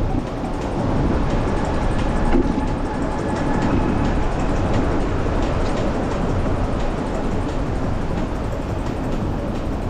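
Wind rushing over the microphone on a moving bicycle: a steady, loud, low rumble with no clear breaks.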